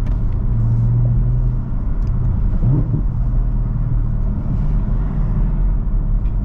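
Camaro ZL1's supercharged 6.2-litre V8 running at low, fairly steady revs while driving, heard from the cabin with the windows down, with a brief change in engine pitch a little before the midpoint.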